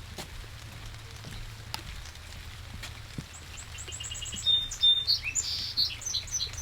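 A songbird starts singing about halfway in: quick runs of repeated high notes. Light patter of raindrops runs under it.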